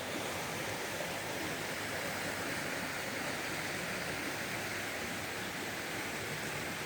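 Mountain valley stream, water rushing steadily.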